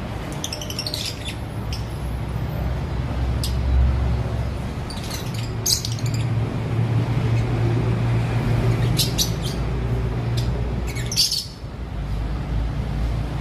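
Lovebirds in an aviary giving short, sharp high-pitched chirps and squawks in scattered bursts, over a steady low hum.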